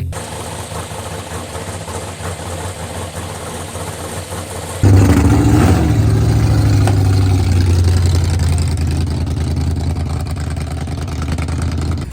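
Drag-racing car engines running at the strip; about five seconds in the sound jumps suddenly louder as an engine runs hard at high revs and holds there for several seconds.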